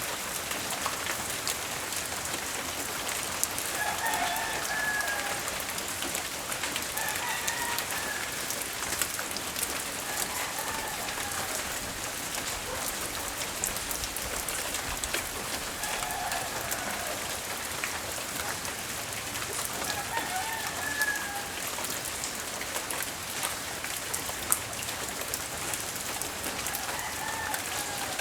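Steady rain falling, with distinct drops landing close by. A rooster crows several times in the distance, about five short calls spread through the rain.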